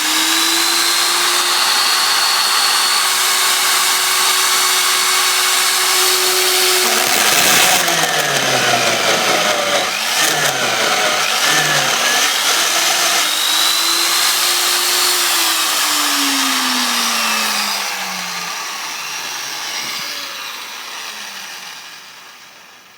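Homemade drill's motor turning a 30 mm hole saw through a 9 mm thick workpiece: it runs at a steady pitch, then wavers and dips under the cutting load, picks up again, and winds down with a falling pitch as it fades out near the end.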